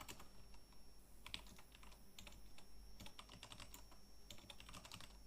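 Faint, irregular computer keyboard typing: a quick run of key clicks as a term is typed in.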